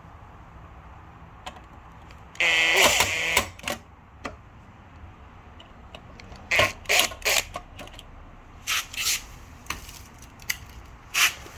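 A screwdriver working the screws out of a Tomos A3 moped's engine cover. There is a loud rasping squeak about two and a half seconds in, then scattered clicks and knocks of tool and metal.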